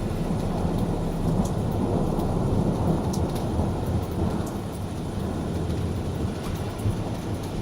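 Thunder rumbling on without a break in a long low roll that eases slightly near the end, with a few faint ticks of rain.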